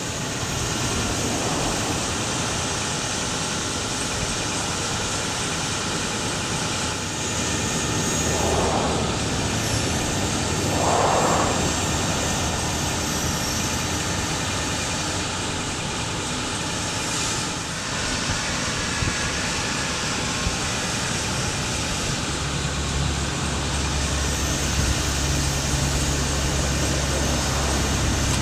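Bucket truck, a Ford F550 with a Terex aerial lift, running steadily with a mechanical hum; a deeper, steady low engine hum comes in about three quarters of the way through.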